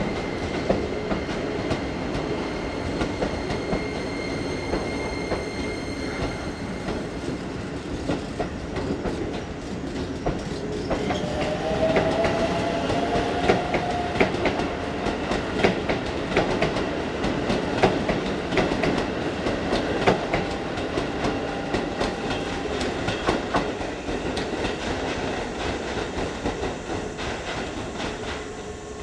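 Keisei electric commuter trains moving slowly through the station junction, wheels clicking over rail joints and points. A steady high whine runs for the first several seconds, and a short whine glides upward about eleven seconds in.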